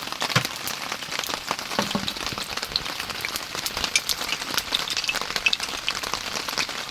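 Heavy rain falling, a steady hiss dotted with many small taps of drops striking a surface.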